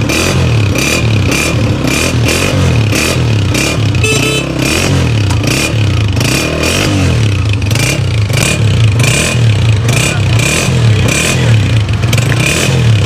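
Honda CG 125's 125 cc single-cylinder air-cooled four-stroke engine running in a sound test, its pitch rising and falling again and again.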